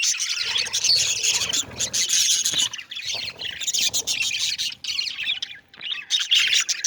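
A flock of budgerigars chirping and chattering together in a continuous, busy twitter, with a short lull a little after halfway.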